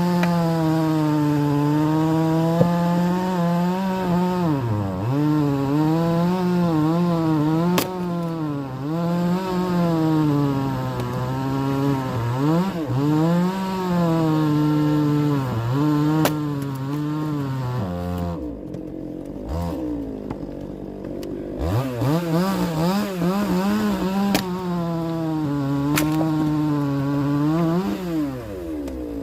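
Chainsaw running at high revs while cutting wood, its pitch repeatedly dipping under load and recovering. About two-thirds of the way through it drops to idle for a few seconds, then revs back up.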